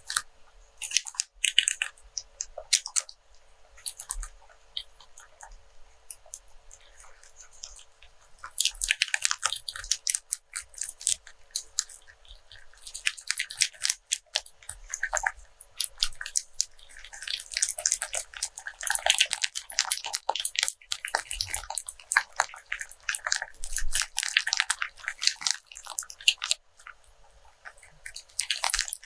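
Rope handled close to the microphone, its fibres rubbing and crackling in quick dense bursts, sparse at first and much busier from about nine seconds in.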